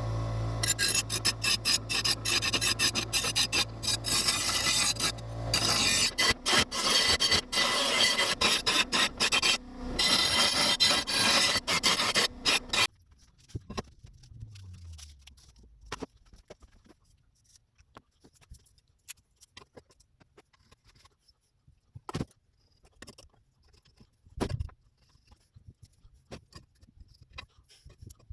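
Homemade belt grinder driven by a 550 W AEG bench grinder motor, its abrasive belt rasping against a workpiece for about the first thirteen seconds. Then the motor's hum falls away as it winds down, followed by a few scattered knocks.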